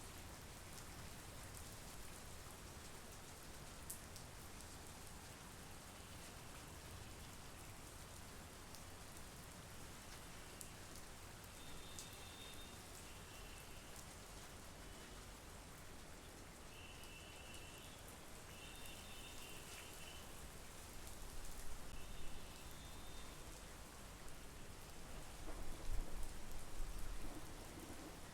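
Steady monsoon rain falling on a lake and trees. A few short high-pitched chirps come in the middle, and low rumbles swell up twice near the end.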